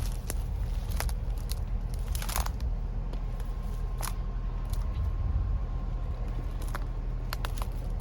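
Footsteps crunching on a gravel trail surface at walking pace, over a steady low rumble.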